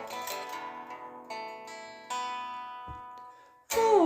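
Acoustic guitar chords struck and left to ring out, fading between strokes, with a brief silence and then a sung note starting loud near the end.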